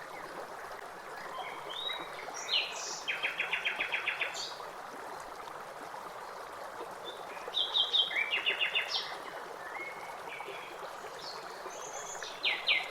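A songbird singing three separate phrases, each ending in a fast trill of repeated notes, over a steady background hiss.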